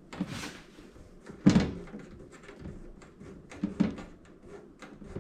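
Knocks and clicks of a steel toaster oven housing being handled while being taken apart: a short scrape near the start, one sharp knock about a second and a half in, then a few lighter clicks later.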